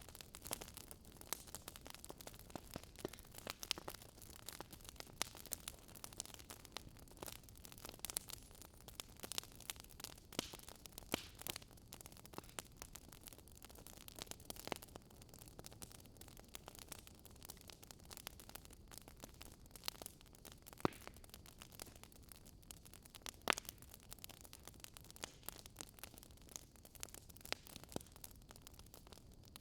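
Wood fire crackling in a fireplace: irregular sharp pops and snaps, a few of them louder, over a low steady hiss.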